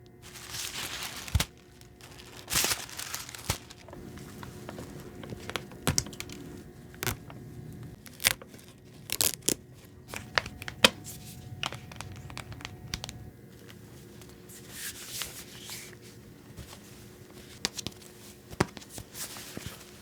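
Doll packaging being opened by hand: repeated crinkling and tearing, with sharp clicks and taps scattered throughout.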